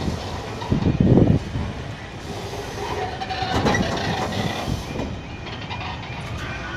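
Train rolling over a level crossing: steady rumble with heavy wheel knocks over the rail joints, about one, three and a half and five seconds in.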